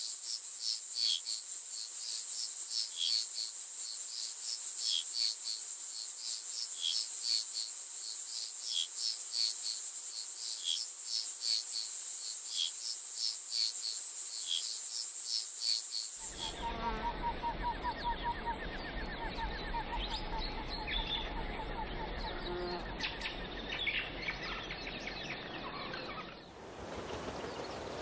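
Rainforest ambience: a steady high-pitched insect drone with short bird chirps repeating every half second or so. About sixteen seconds in it changes to a denser chorus of trilling insects and birds.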